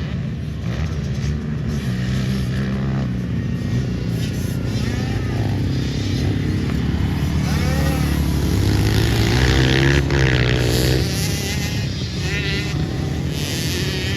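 Pit bike engines racing, their high-revving notes overlapping and rising and falling as the riders rev up and shift, loudest about two thirds of the way through.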